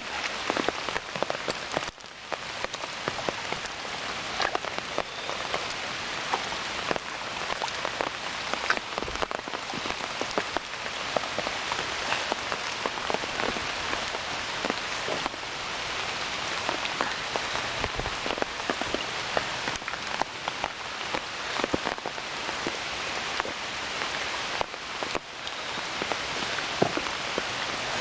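Heavy rain falling steadily, with many separate drop ticks, mixed with the rush of water flowing along a small rock-lined stream into a pond.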